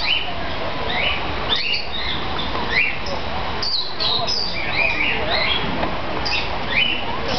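Several caged birds chirping, with many short, high chirps overlapping one another in quick succession over a steady background hiss.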